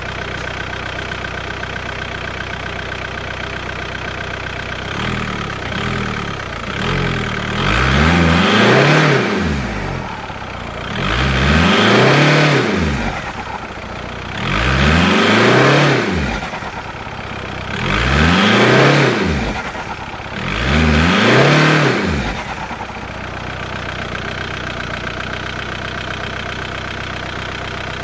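Volkswagen 1.9 TDI four-cylinder turbodiesel idling, then revved five times in a row, each rev rising and falling back, before settling to idle again. Its turbo flutters as the throttle is released.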